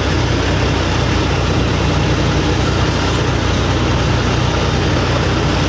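Heavy truck engine running steadily with a low, even hum.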